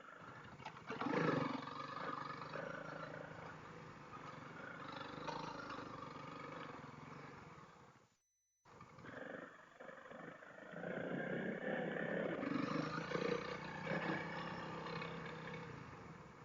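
Honda CRF300L dual-sport motorcycle's single-cylinder engine running under way on a trail, the revs rising and falling. The sound cuts out for a moment just past halfway.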